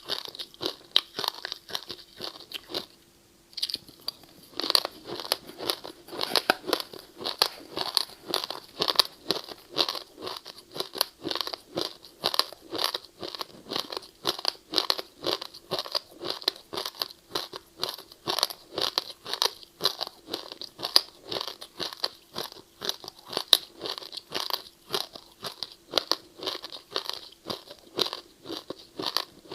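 Ice being chewed close to the microphone: rapid, continuous crunching bites, with a brief pause about three seconds in.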